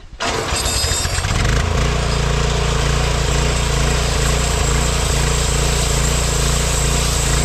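Small pull-start gasoline engine of a homemade band sawmill running, coming in suddenly and settling into a steady run about a second and a half in.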